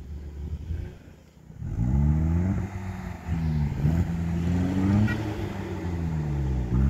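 Kia Sportage SUV engine revving hard under load on a muddy, snowy off-road track. It comes in about a second and a half in, then rises and falls in pitch several times as the throttle is opened and eased off.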